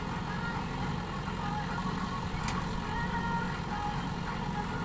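Diesel engine of heavy earth-moving or farm machinery running steadily, with a constant low rumble.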